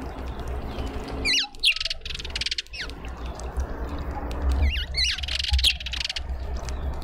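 Birds calling in two bursts of quick, sweeping chirps mixed with harsh chattering, each about a second and a half long, the second starting about three seconds after the first.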